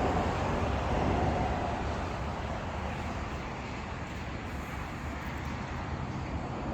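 Steady road traffic noise, a little louder in the first second or so and then easing off.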